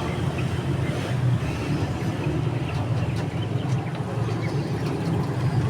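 Steady low rumble of outdoor background noise, with a few faint scattered clicks.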